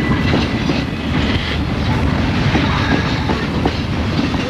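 Train running along the rails, a steady heavy rumble with scattered clicks of the wheels on the track.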